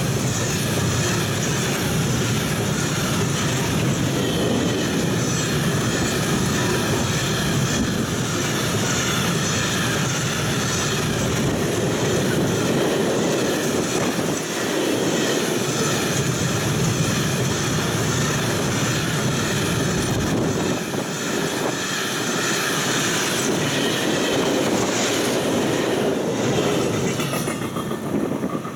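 Empty freight wagons rushing past at speed on the track close by: a continuous loud run of wheels on the rails, with clattering. The noise falls away as the end of the train passes, near the end.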